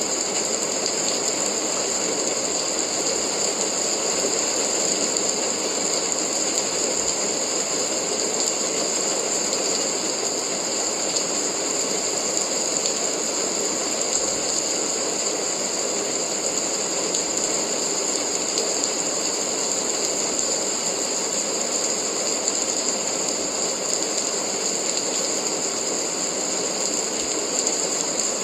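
Steady rain falling, an even unbroken hiss with a dense fine crackle of drops.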